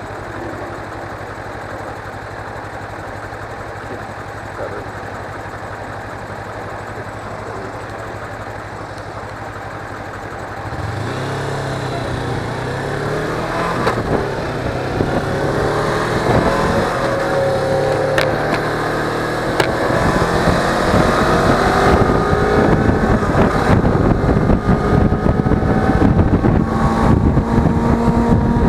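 Suzuki V-Strom 250 motorcycle's parallel-twin engine idling steadily, then pulling away about a third of the way in and accelerating, its pitch climbing repeatedly as it shifts up through the gears and growing louder.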